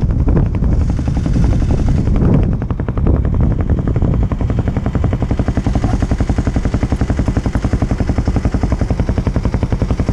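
Kawasaki KLX250's single-cylinder four-stroke engine running, louder and rougher for the first few seconds, then settling into a steady idle with an even rapid pulse.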